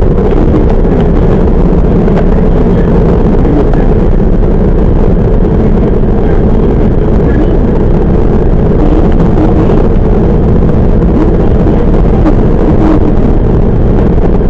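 Cabin running noise of a Toyama Chiho Railway 10030 series electric train under way: a loud, steady rumble of wheels on rail, with a few faint scattered clicks.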